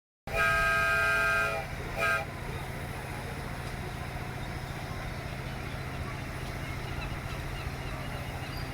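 Miniature railway locomotive sounding its horn: one long chord-like blast of a little over a second, then a short toot. After that a steady low running rumble as the locomotive works.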